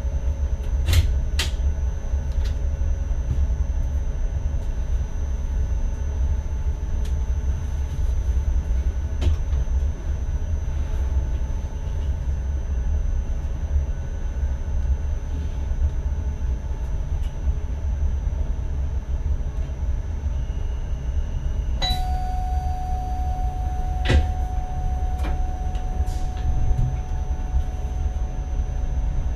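Cab of an NS ICM electric train running: a steady low rumble with scattered clicks and knocks. About two-thirds of the way through, a sharp click and a steady tone come on and hold.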